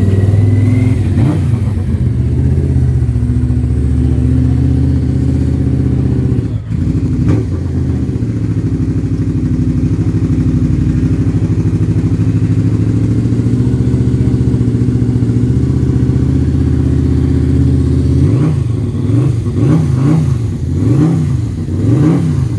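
Motorcycle engine running loudly at a steady pitch, then revved up and down about four times in quick succession near the end.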